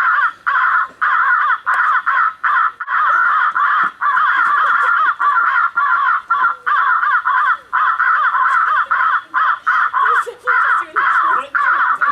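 A large flock of birds calling loudly over one another in a dense, continuous chorus, broken by brief gaps every second or so.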